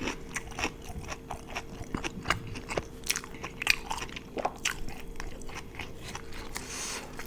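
A person eating close to the microphone: crunchy bites and chewing, as many quick, irregular crackles.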